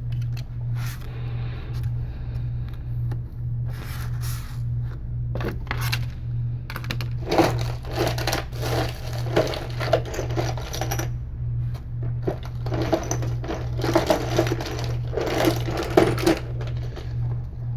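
A small hand tool scraping and rubbing at adhesive on an iPad mini 3's frame, in repeated bursts with small clicks, over a steady low hum.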